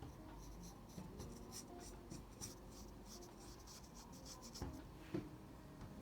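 Pencil scratching on drawing paper in quick repeated strokes, then two light knocks about half a second apart near the end.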